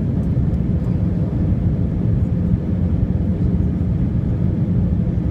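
Steady low rumble of engine and airflow noise inside the cabin of an Airbus A319 airliner in flight, on the approach to landing.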